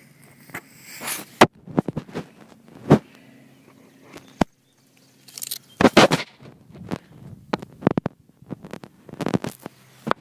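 Irregular sharp knocks, clicks and rustling with no steady rhythm, broken by a brief dead gap near the middle.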